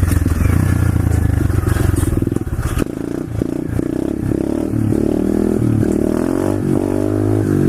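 125cc SSR pit bike's single-cylinder four-stroke engine pulling hard for a wheelie in second gear. The revs drop off about three seconds in, then the engine runs on at steadier revs.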